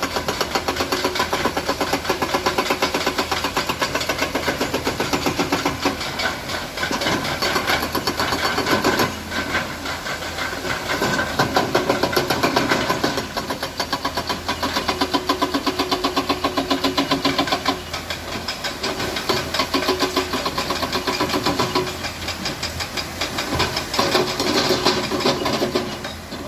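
Diesel engine of a concrete mixer truck running with a fast, even knock, its level dipping and rising again every few seconds.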